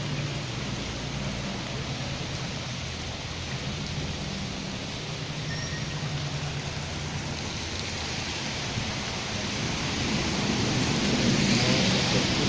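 Heavy rain falling steadily, with a low steady hum underneath. The rain noise swells louder near the end.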